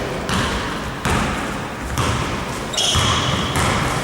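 Basketball game in a sports hall: the ball bouncing on the court floor amid players' movement, with echo from the hall.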